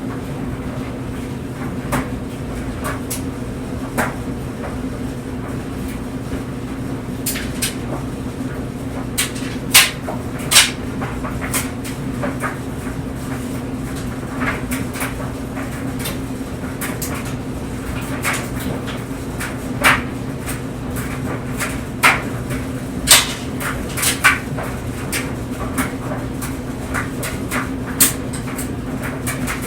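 Clothes dryer running with clothes tumbling in the drum: a steady hum with irregular sharp knocks and clicks every second or two.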